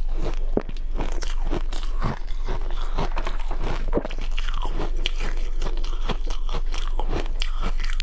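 A person biting and chewing powdery snowball ice: a dense, irregular run of crisp crunches.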